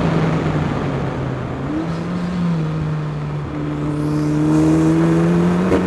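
Ariel Atom 4's Honda Civic Type R 2.0-litre turbocharged four-cylinder engine pulling the car at speed, heard from the open cockpit over steady wind rush. The engine note dips briefly in the first two seconds, then climbs slowly and gets louder as the car accelerates.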